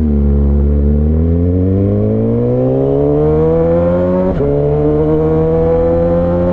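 Straight-piped (M4, no cat) inline-four of a 2006 Suzuki GSX-R600 (K6) motorcycle accelerating hard, its pitch climbing steadily. About four seconds in it drops briefly in a quick upshift through the quick shifter, then keeps pulling and climbing.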